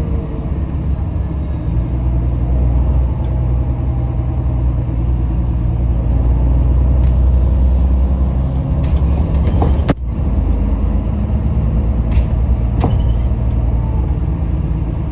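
Yutong ZK6128HG diesel city bus under way, heard from inside the passenger cabin: a steady low engine and road rumble. A few sharp rattles or clicks sound in the second half, with a brief dip in the rumble about ten seconds in.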